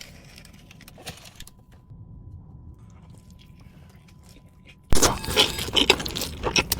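Close-miked eating: quiet chewing at first, then loud crunchy biting and chewing from about five seconds in.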